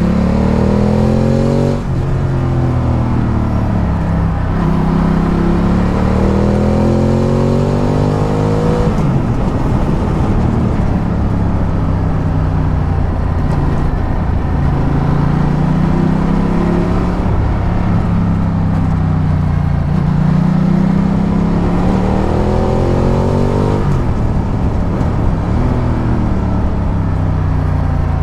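Ducati Multistrada 1200's L-twin engine on the move, its pitch climbing under acceleration and dropping sharply at gear changes about 2, 9 and 24 seconds in, over steady wind and road noise.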